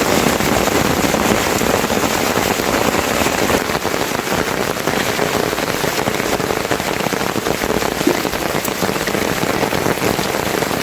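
Steady rain falling and pattering on surfaces, a dense even hiss with many small drop impacts.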